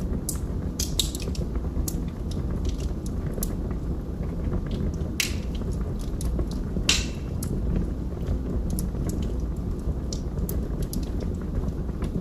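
Wood fire burning in a fireplace: a steady low rumble of flames with scattered crackles from the burning logs and two louder pops near the middle.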